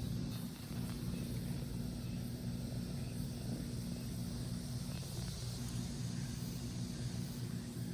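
A steady low mechanical hum, like an engine running, with even pitch and level throughout.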